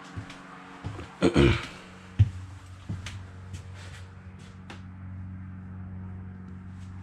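A steady low hum with a loud sniff about a second in, followed by a handful of light clicks and knocks, the sharpest about two seconds in.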